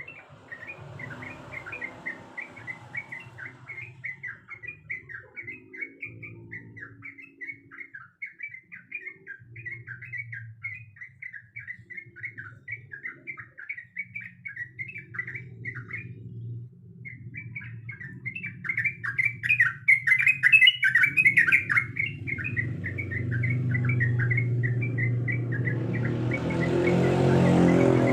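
Yellow-vented bulbul (trucuk) singing a fast, continuous chatter of short notes. The notes break off briefly about halfway through and are loudest a few seconds later. A low engine-like hum swells under the song near the end.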